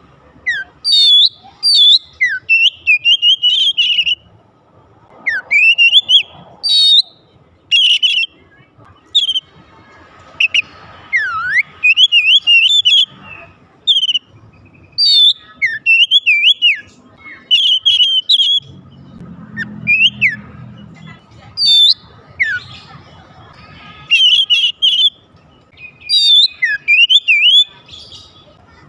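Oriental magpie-robin (kacer) singing: loud, varied whistled phrases of rising and falling notes and quick trills, in short bursts with brief pauses between them.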